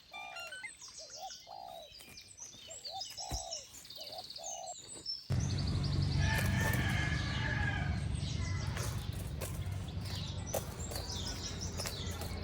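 Birds calling: short arching calls repeated every half second or so, with higher chirps over them. About five seconds in, the sound cuts abruptly to a louder, steady noisy background with a low hum, and birds still chirp over it.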